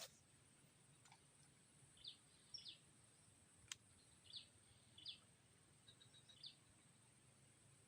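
Faint birdsong: short chirps repeated every second or so, with a few sharp clicks, over a thin steady high-pitched hiss.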